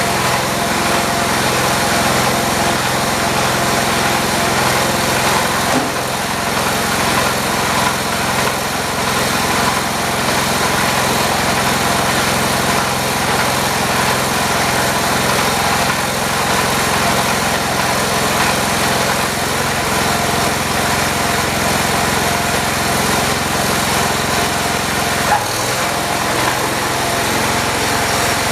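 John Deere 208 lawn tractor's engine running steadily, freshly fitted with a new head gasket and being tried for power. The note shifts about 25 seconds in.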